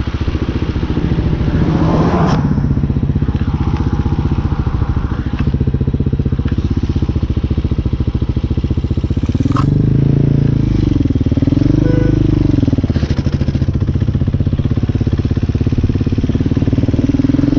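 Hawk 250 motorcycle's single-cylinder engine running at low speed through a U-turn, heard on the GoPro's built-in mic. About ten seconds in, the engine revs up and down a few times as it pulls away, and there are a couple of sharp clicks.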